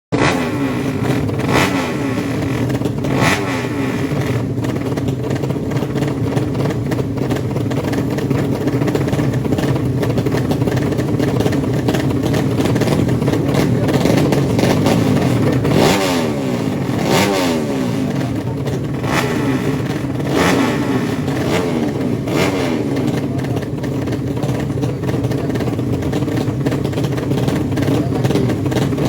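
Racing underbone (bebek) motorcycle engines of a drag-bike class running loud, with sharp revs rising and falling several times.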